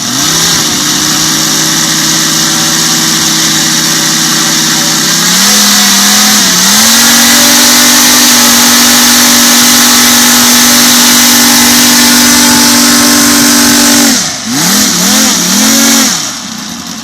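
Five-cylinder radial aircraft engine with a large exhaust ring, running smooth and fairly quiet under throttle. It speeds up just after the start and holds steady, steps up to a higher steady speed about five to six seconds in, then is throttled back and up three times near the end before dropping off.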